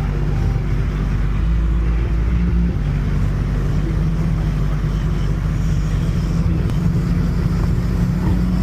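Steady drone inside a moving Honda's cabin: a low, even engine hum with road noise underneath.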